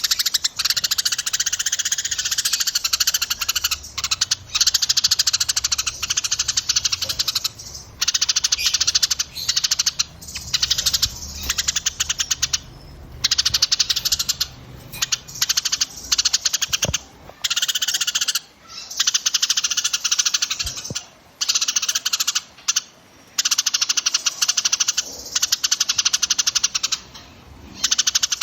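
Small songbirds' dense, rapid trilling song, the kind played as a masteran recording to tutor caged songbirds. It comes in fast, buzzy phrases of a few seconds each, broken by brief pauses.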